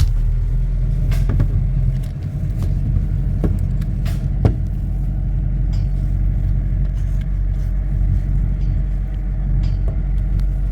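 Steady low rumble of a moving road vehicle, with scattered short knocks and rattles.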